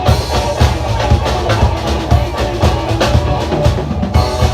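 Rock band playing live through a PA: a drum kit keeps a steady beat, about two hits a second, under bass and sustained instrument notes, with no singing.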